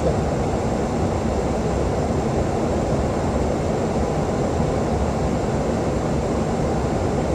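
Steady rushing noise of a Boeing 737-800 in flight, heard from inside the cockpit: airflow and engine noise at an even level.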